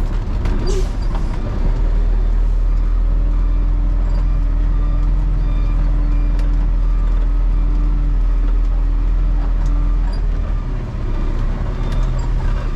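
Garbage truck running, a steady low rumble with a steady hum over it that drops away about ten seconds in.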